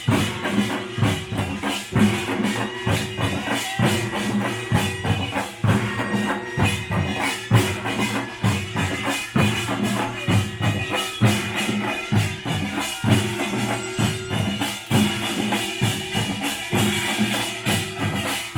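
Korean pungmul (nongak) folk percussion band playing: drums and small gongs beaten in a fast, dense, driving rhythm.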